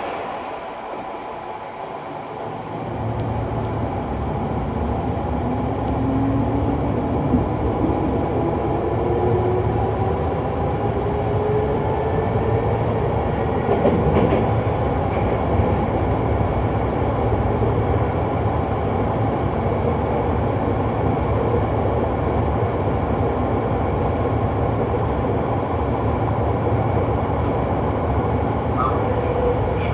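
Kintetsu 6020-series electric train heard from inside the car as it gets under way: low running rumble builds about three seconds in, and a motor and gear whine climbs steadily in pitch over about ten seconds as the train gathers speed, then the train runs on at speed.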